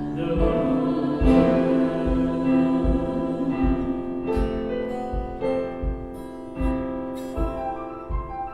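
Worship band music, mostly instrumental: piano and guitar playing sustained chords over a steady low beat, as the song winds down after its last sung line.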